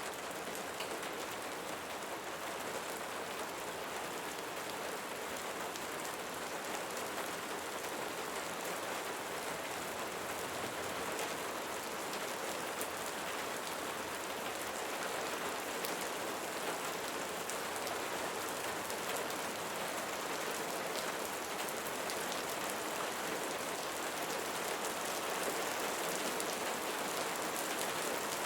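Steady rainfall, a dense patter of drops on a surface, growing a little louder near the end.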